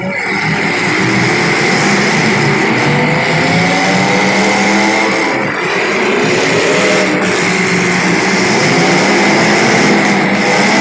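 Several small race-car engines running at speed together, their pitches overlapping and rising and falling as the cars lap the track.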